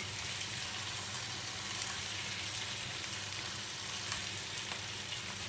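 Chicken legs frying without added oil, sizzling steadily with faint crackles in the fat that has rendered out of them as they brown.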